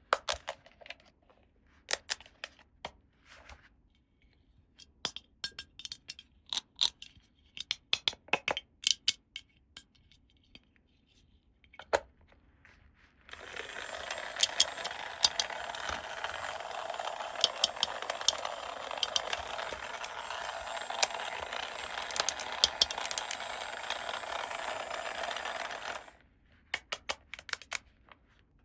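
Small plastic toy pieces and packaging being handled: scattered light clicks and taps. About a third of the way in, a steady rustling scrape starts and runs for about thirteen seconds with clicks over it, then stops suddenly and the scattered clicks return.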